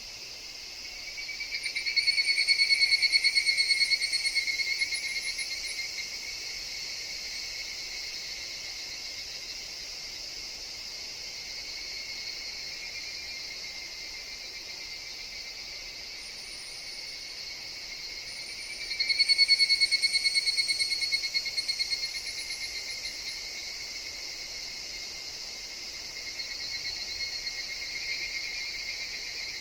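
Higurashi (evening cicadas) calling with a fast pulsing trill: a loud call beginning about a second in and fading over several seconds, another about nineteen seconds in, and a fainter one near the end. Beneath them runs a steady high insect drone.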